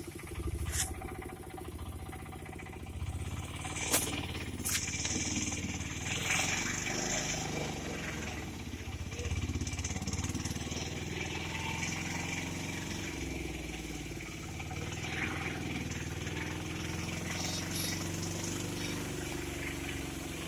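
A vehicle engine running.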